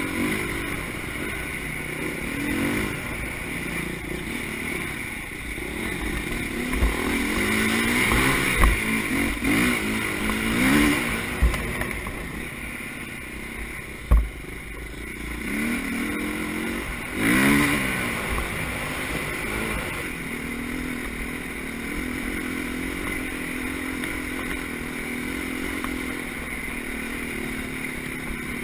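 Motocross motorcycle engines revving, their pitch rising and falling again and again as the bikes accelerate and ease off, with a few sharp low thumps.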